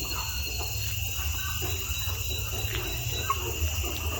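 Scattered short clucks from chickens in a poultry pen, over a steady high insect trill.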